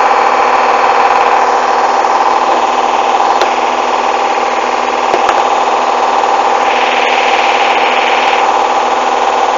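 Hoover washing machine on its final spin with an unbalanced load: a steady motor whine with the drum running at constant speed and a couple of sharp knocks from the drum. A brief hiss comes in about seven seconds in.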